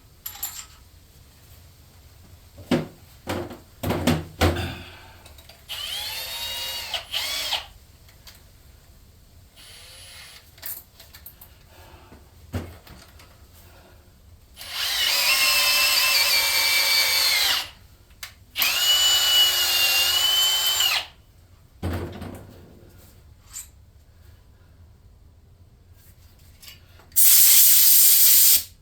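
Power drill driving a 2 mm-pitch tap into a drilled-out LS engine block head-bolt hole, running in four bursts of a few seconds each with steady whines, the last the loudest. Sharp clunks of tools being handled come in the first few seconds.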